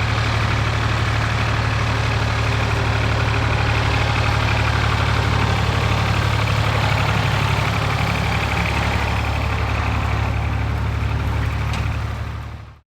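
Tractor engine running steadily with a deep hum, fading out near the end.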